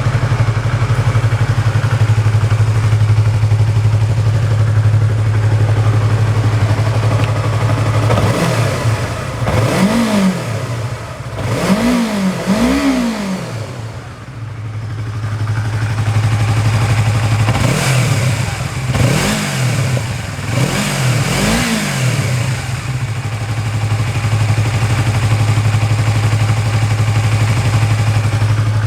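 Yamaha YZF-R25's parallel-twin engine on its stock muffler, idling steadily, then blipped three times about a third of the way in and three times again a few seconds later, each rev rising and falling back to idle.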